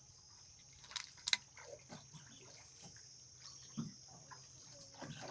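Steady high-pitched drone of insects, with two sharp clicks a little after a second in.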